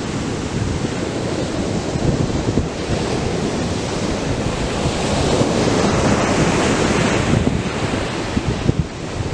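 Atlantic surf breaking and washing onto the beach: a steady hiss and rumble of waves that swells louder midway as a wave breaks, then eases near the end. Wind buffets the microphone throughout.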